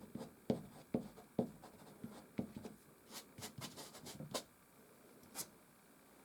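Soft pastel stick on canvas: a quick run of short, scratchy strokes and dabs, then a pause and one last stroke near the end.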